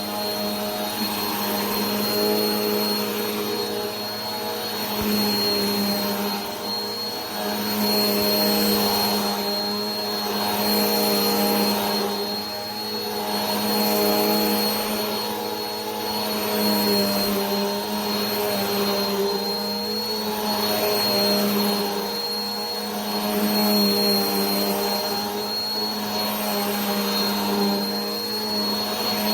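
A vacuum cleaner running continuously: a steady motor hum with a thin high whine over a rushing hiss of air, the hiss swelling and fading every two to three seconds.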